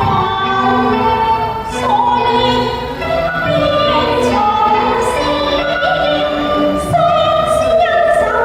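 Operatic singing with musical accompaniment. The sung notes are held, gliding and wavering in pitch.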